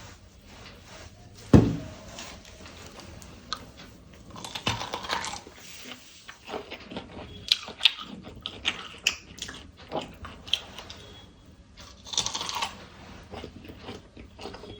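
Sweet corn being handled for ASMR: a sharp thump about a second and a half in, then irregular crisp crunches and clicks, with a short rustling stretch near the end.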